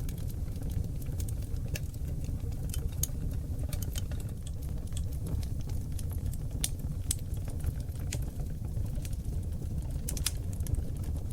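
Oak log fire burning in a fireplace: a steady low rumble of flames with frequent sharp crackles and pops at irregular moments.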